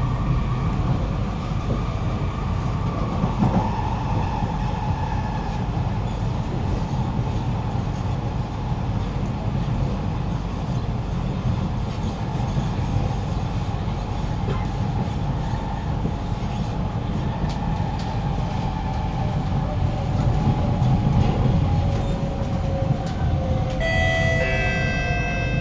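Cabin noise of a Kawasaki-CRRC Sifang C151B electric train running on the line: a steady low rumble of wheels on track. From about two-thirds of the way in, the traction motors' whine falls in pitch as the train slows, and a short run of high stepped tones sounds near the end.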